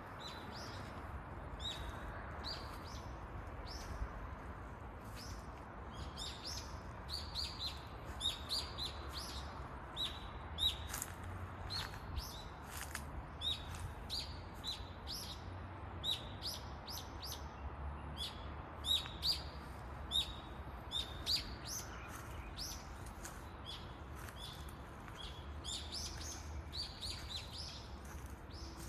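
Small songbirds chirping repeatedly in quick, short notes, many calls overlapping, over a faint steady low rumble.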